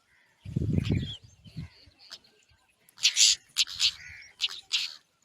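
Baby birds in the nest giving a run of short, hissy, high calls, four or five in quick succession in the second half. A brief low rumble comes about half a second in.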